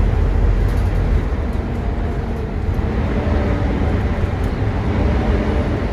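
Volvo B9TL double-decker bus running along, heard from on board: a steady low engine and road drone with faint steady tones above it.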